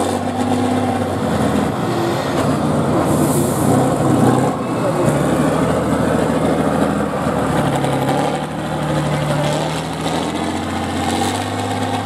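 Truck engine working under load, its revs rising and falling repeatedly as it climbs and manoeuvres over rough ground, with short hisses now and then.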